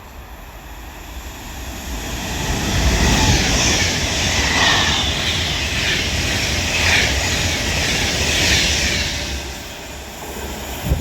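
Class 390 Pendolino electric train passing through a station at speed without stopping: the rumble and rushing noise build over the first two seconds, stay loud for about seven seconds, and ease off near the end.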